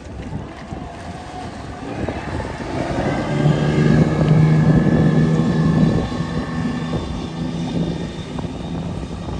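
Wind buffeting the microphone, with an engine drone that builds about two seconds in, is loudest between about three and six seconds, then eases off.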